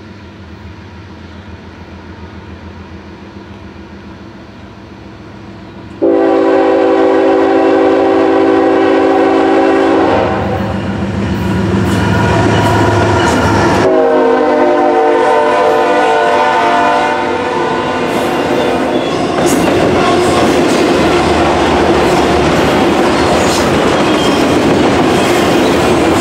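Freight train led by two GE diesel-electric locomotives (ES44AC and C40-9W) approaching, its engines rumbling, then the lead locomotive's air horn sounding loud chords about six seconds in. It sounds again around fourteen seconds, dropping slightly in pitch as the locomotive passes. After that the intermodal cars roll by with steady wheel noise and clickety-clack over the rail joints.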